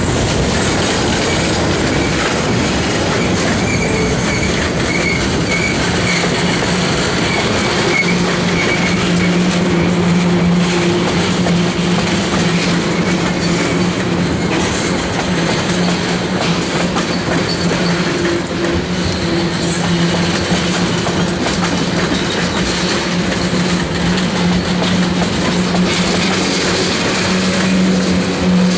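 Railroad train rolling past, steel wheels clattering over rail joints with some wheel squeal, with a steady low hum underneath.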